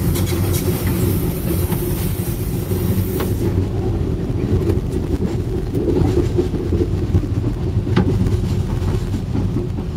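Train running on the track, heard from aboard: a steady low rumble of wheels and car. A high rushing hiss drops away about three and a half seconds in as the train enters a tunnel, and there is a single sharp click about eight seconds in.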